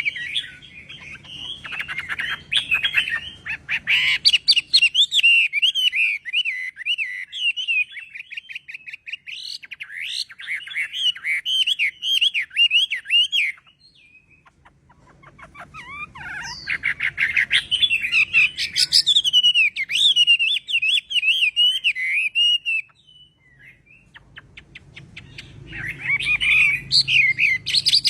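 Chinese hwamei (hoạ mi) singing: long runs of rapid, varied whistled notes and fast trills, in three phrases broken by two short pauses.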